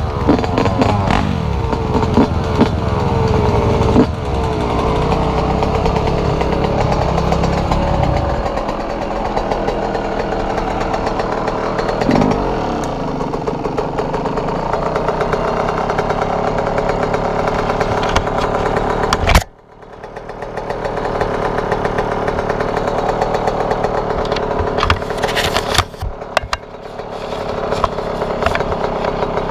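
Dirt bike engine running and revving, its pitch rising and falling with the throttle. About two-thirds of the way through there is a sharp knock, the sound drops away for a moment, then builds back up.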